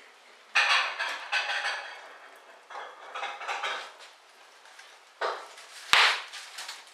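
Hard objects clattering and knocking in several bursts, the loudest a single sharp knock near the end.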